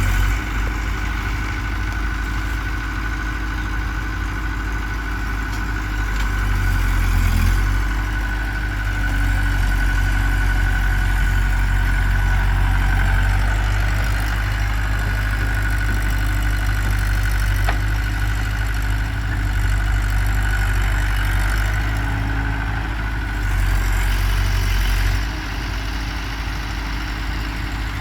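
Heavy diesel engine running steadily with a steady high whine over it, getting louder about seven seconds in and dropping back shortly before the end.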